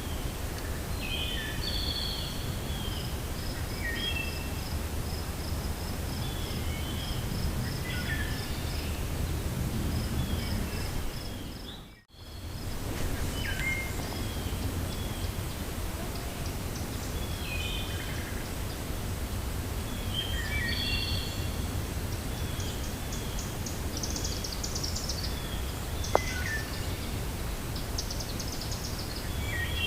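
Forest ambience: wind blowing with a steady low rumble while several songbirds chirp and call over it, one keeping up a quick even series of high notes for several seconds. The sound briefly drops out and comes back about a third of the way in, and there is one sharp click near the end.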